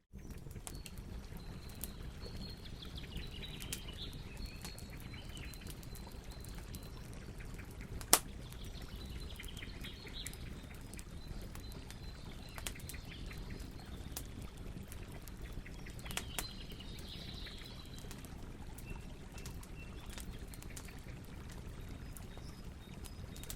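Campfire burning with a steady low rush and scattered crackles, and one sharp, loud pop about a third of the way in. Birds chirp in the background now and then.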